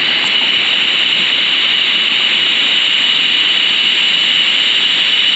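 Steady rushing noise of a jet airplane passing high overhead, heard over a mountain stream.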